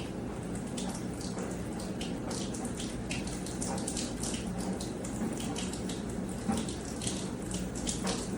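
Water trickling and dripping, with many small irregular ticks over a steady hiss and a faint low hum.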